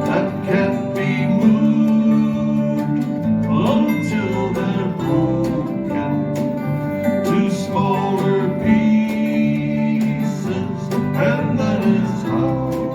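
Live acoustic folk band playing: strummed acoustic and steel-string guitars, mandolin and bass, with light percussion keeping the beat.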